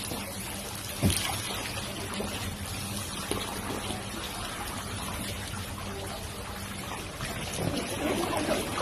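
Water running and trickling steadily while children play with it, with a single knock about a second in.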